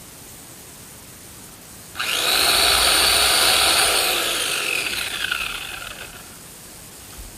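Electric chainsaw motor starting suddenly and running at full speed with a high whine, then winding down with falling pitch over about two seconds as it is let off.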